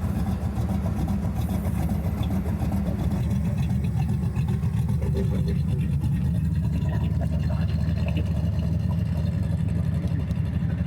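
A car engine running steadily close by, a low, even exhaust rumble.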